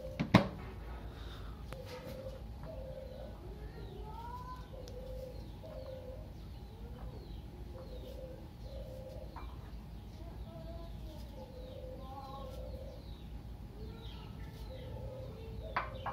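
Birds calling: a run of short, low notes repeated about once a second, with faint higher chirps over them, like domestic fowl or doves around the house. A single sharp knock sounds about half a second in.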